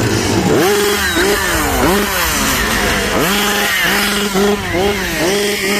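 Chainsaw engine revved again and again, its pitch climbing and dropping in repeated swoops that come quicker and shorter in the second half.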